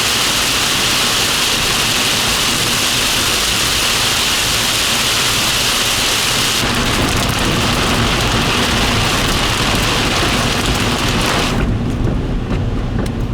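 Heavy rain beating on a vehicle during a thunderstorm, a loud steady hiss. Near the end the hiss drops away, leaving a low rumble.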